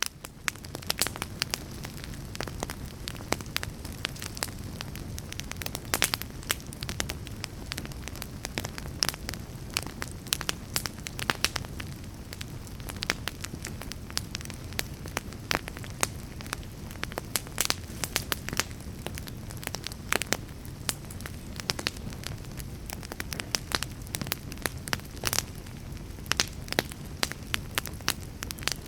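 Fire crackling steadily: a low rumble under frequent sharp snaps and pops.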